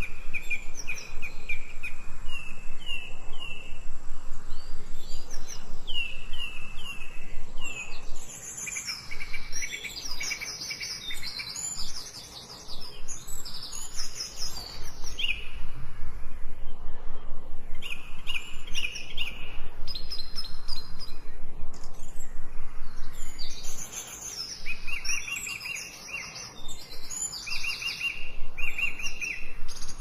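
Songbirds chirping and singing: repeated runs of short, quick chirp notes, with several higher-pitched calls overlapping at times.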